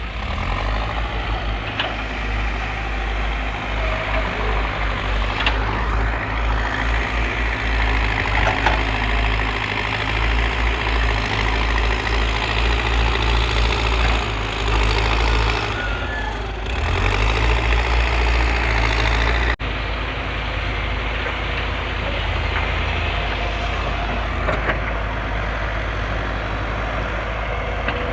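Heavy machinery's diesel engine running and working, its level rising and falling, with a few short knocks and clanks. About two-thirds of the way through the sound cuts abruptly and resumes steadier.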